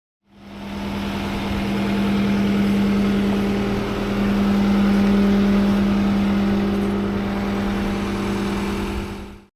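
An engine running steadily at constant speed with a strong, even hum, fading in at the start and out near the end.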